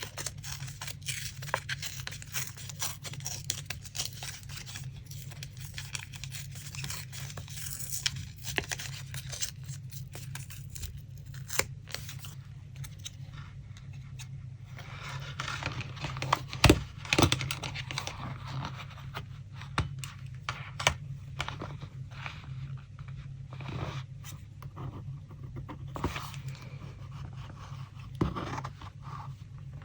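Paper being handled for collage: continual rustling, tearing and scraping of paper, with scattered light taps and a sharper tap a little past halfway, over a steady low hum.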